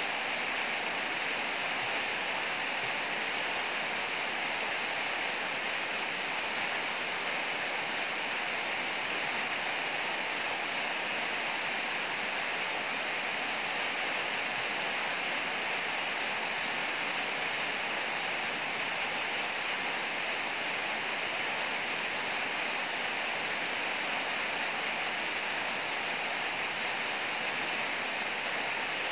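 Heavy rain falling, a steady dense hiss with no thunder heard.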